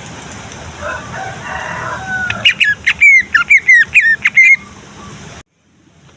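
Male greater green leafbird (cucak ijo) singing. Soft chattering notes lead into a fast run of about ten loud, sharp, downward-slurred notes, then the sound cuts off abruptly near the end.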